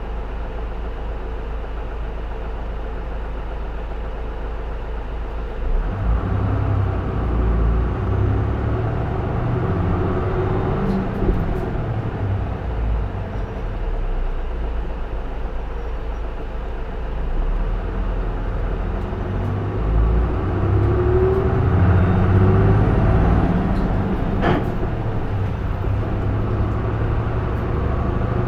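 J-Bus PKG-LV234L2 (Isuzu Erga) city bus diesel engine idling steadily, then pulling away about six seconds in and revving up under load through the gears, with a rising whine later on and a short sharp sound near the end.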